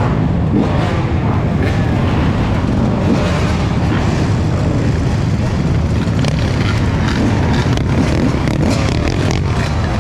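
Steady noise of a moving vehicle, with a heavy, even wind rumble on the microphone.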